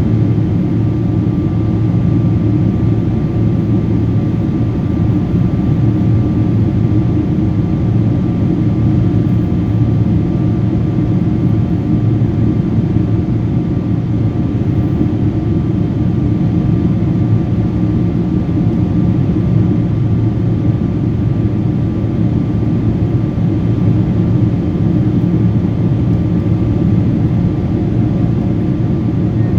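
Airliner cabin noise in flight: the steady drone of the jet engines and rushing airflow, with a few constant hum tones underneath, unchanging throughout.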